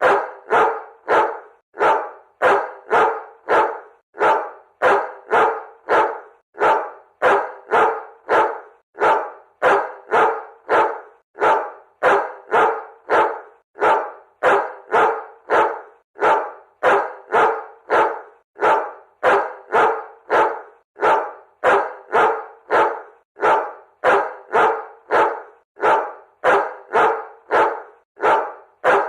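A dog barking over and over in a steady, even rhythm, about two to three barks a second without a pause.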